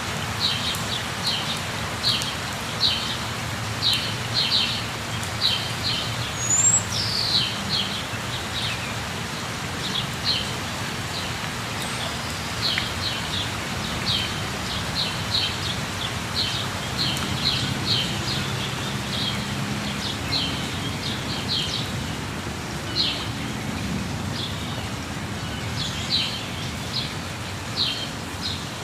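Steady rush of a waterfall, with birds chirping in many short, high notes throughout.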